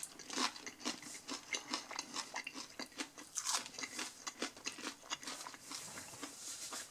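A person chewing a deep-fried, beer-battered onion ring: a run of irregular crunches as the crisp fried batter is bitten and chewed.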